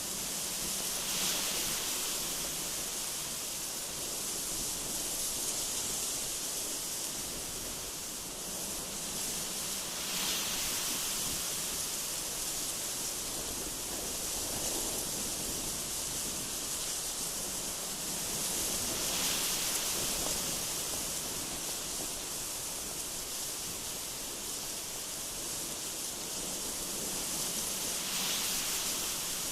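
Gusty wind blowing through trees: a steady high hiss that swells a little about every nine seconds.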